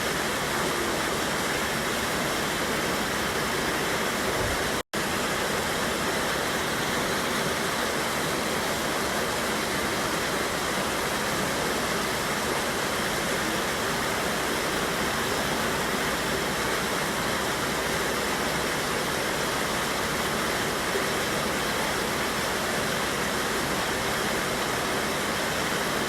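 Steady rushing of a river waterfall, water pouring over rocks. The sound cuts out for a split second about five seconds in.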